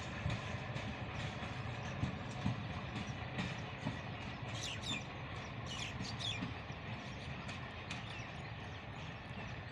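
PHA-20 diesel locomotive and its passenger train running away down the track, a low rumble with the clatter of wheels over the rails slowly fading. A few short bird chirps come near the middle.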